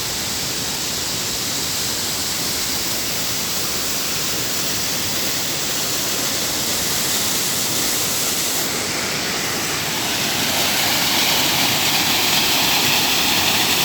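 Waterfall rushing: a steady roar of falling water that grows slightly louder over the last few seconds.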